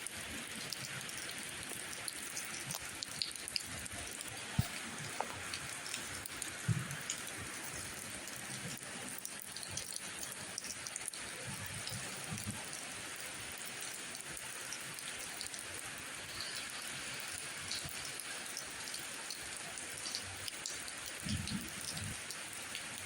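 Steady rain, with scattered close drops ticking and a few soft low thuds.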